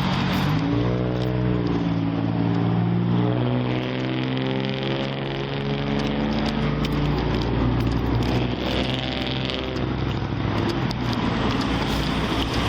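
A motor vehicle's engine running close by, its pitch drifting up and down for several seconds, over a steady rush of traffic noise.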